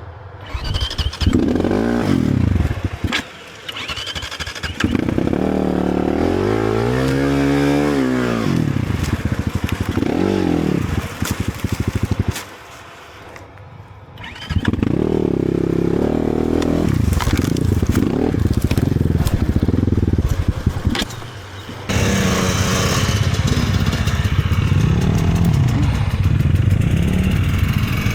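Enduro motorcycle engine revving hard in repeated bursts, its pitch climbing and falling as the throttle is worked. The engine note drops away briefly twice, the second time for about two seconds in the middle, then picks up again.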